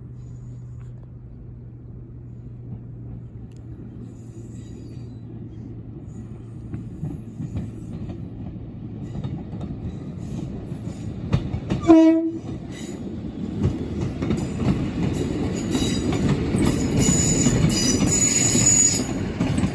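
A diesel passenger train idles with a steady low hum. It then sounds one short horn blast about twelve seconds in and pulls away, with the running noise and wheel squeal growing louder.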